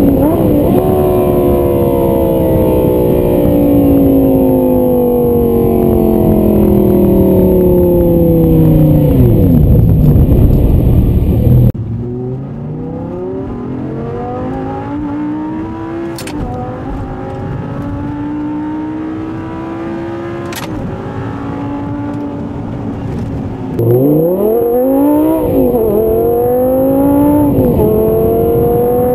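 Audi R8 V10 engine through a high-flow X-pipe exhaust, its note falling slowly for about ten seconds as the revs drop. After an abrupt change to a quieter take with gentle rises and falls in revs, it comes back louder and revs up sharply twice.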